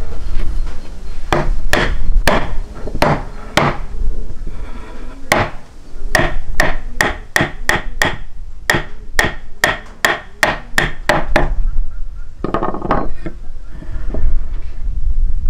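Repeated sharp strikes, about two a second, each with a brief ring, over a steady low rumble; a quick flurry of knocks comes about twelve seconds in.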